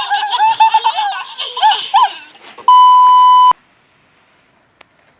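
A very high-pitched, giggly child's voice for about two and a half seconds, then a loud, steady electronic beep of a bit under a second that cuts off abruptly, followed by near silence with a couple of faint clicks.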